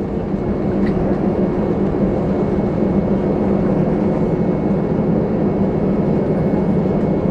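Cabin noise inside an Airbus A320-214 with CFM56 engines during the landing roll: a steady roar of engines and rushing air with a low hum. It grows a little louder in the first second, then holds.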